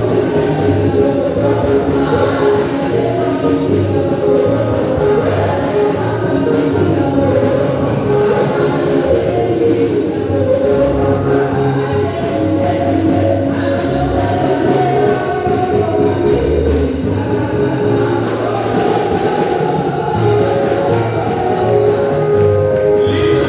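Gospel singing with instrumental accompaniment: voices holding sung lines over a steady bass line.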